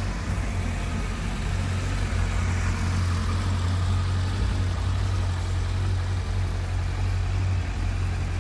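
Suzuki Bandit 1250 S inline-four engine idling steadily through its standard exhaust, running smoothly just after start-up.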